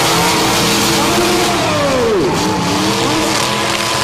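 Several demolition derby cars' engines running and revving at once over a dense wash of noise. About two seconds in, one engine's pitch drops steeply and then climbs again.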